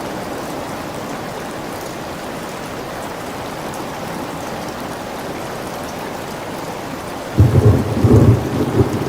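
Steady rain falling, then near the end a sudden loud, deep rumble of thunder that keeps rolling.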